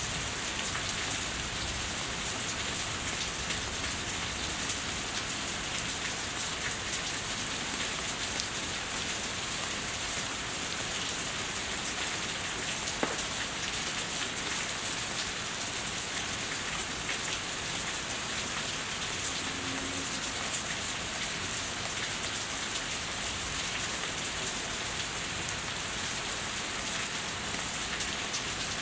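Steady rain falling and running off a house roof, with close drops landing as many small sharp ticks. One louder click comes about halfway through.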